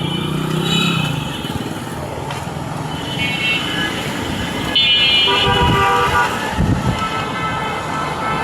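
City street traffic: vehicles passing with a steady hum, and horns tooting several times, briefly, around the middle.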